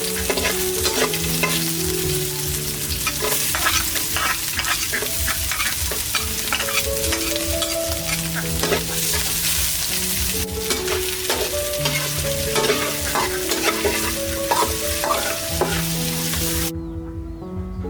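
Food frying and sizzling in a pan, with the clicks and scrapes of stirring. Background music plays under it. The sizzling cuts off suddenly near the end.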